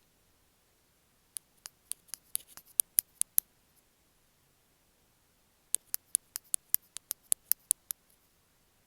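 Bamboo ear pick working against an earphone microphone, making two runs of quick, crisp clicks, about five a second, with a pause between them.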